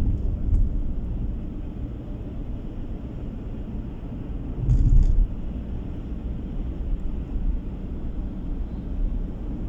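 Car driving on the road: a steady low rumble of tyre and engine noise, with a brief louder thud about five seconds in.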